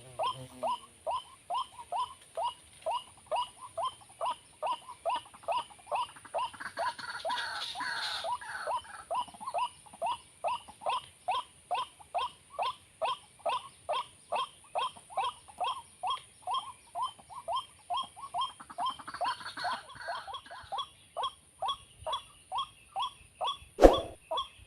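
White-breasted waterhen (ruak) calling, one short harsh note repeated steadily about two to three times a second: the call used to lure ruak into a snare. Two brief rustling noises come in partway through, and a sharp knock sounds near the end.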